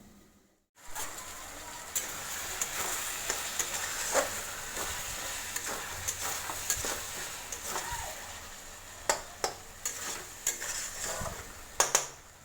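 Food sizzling as it fries in a pan, stirred with a spatula that scrapes and clicks against the pan at irregular moments. It starts just under a second in.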